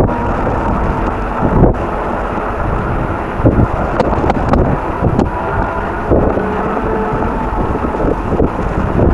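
Strong wind buffeting the microphone during a winter bike ride: a steady low rumble broken by brief louder thumps every second or two.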